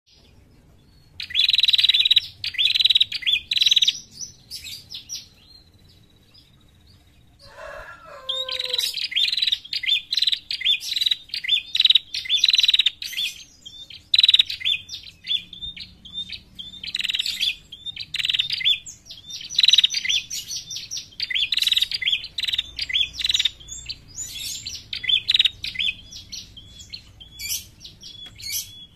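Female prenjak (small Indonesian warbler) in a cage giving bursts of fast, sharp, high chirps: the female's call used as a lure to draw in wild prenjak. After a pause of a few seconds comes a short lower descending call, about eight seconds in. Then the chirping bursts resume, one after another.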